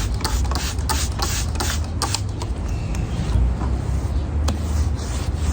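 Quick back-and-forth strokes of a brush working paint into rough-sawn wood, several a second. They ease off partway through and pick up again near the end, over a steady low hum.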